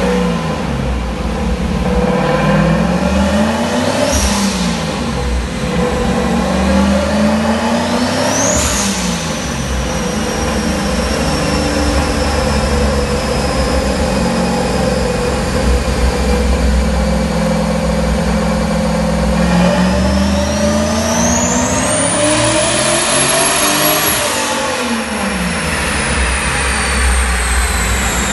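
Turbocharged LS1 V8 running on a chassis dyno: two short revs in the first nine seconds, then a long climb through the revs with a high turbo whistle that rises with it and slowly falls away after the engine comes off the throttle.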